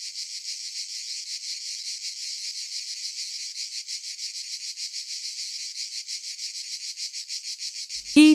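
Insect chirring, a steady high-pitched trill with fast, even pulses.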